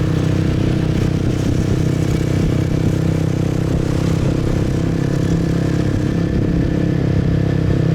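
A motorbike engine running steadily as the bike cruises at an even speed.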